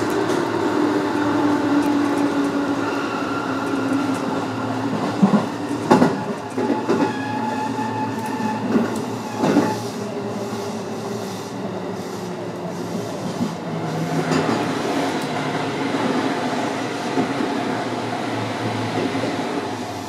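Interior of a moving local electric train: steady running noise of wheels on the rails with a humming motor tone, and a few sharp knocks from the wheels over the track between about five and ten seconds in.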